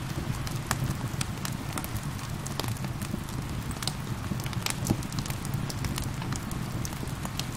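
Wood fire crackling, with irregular sharp pops, over a steady patter of rain.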